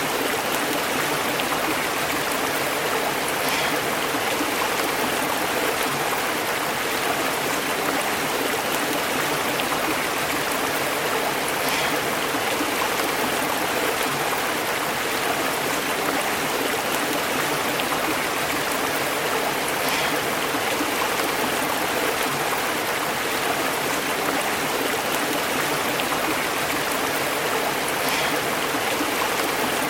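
Stream water burbling and bubbling over rocks in a steady, unbroken rush.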